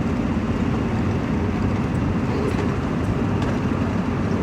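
Steady road and engine noise of a vehicle being driven, heard from inside the cabin.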